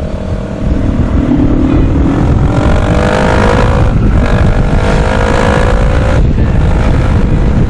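Kawasaki 650 parallel-twin motorcycle engine accelerating, its pitch rising twice with a gear change between, then dropping off as the throttle closes, over heavy wind rush on the helmet microphone.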